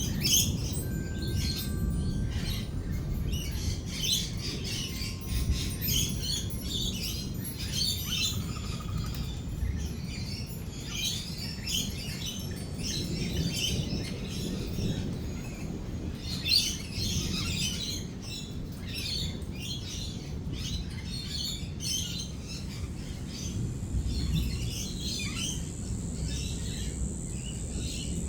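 Rainbow lorikeets chattering and screeching in rapid, overlapping chirps, over a steady low rumble. A thin, high, steady tone joins about three-quarters of the way through.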